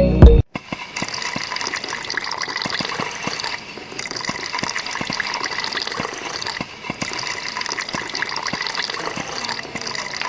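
A small stream of water from a homemade mini water pump splashing steadily, with many small irregular splashes and drips. Background music cuts off suddenly about half a second in.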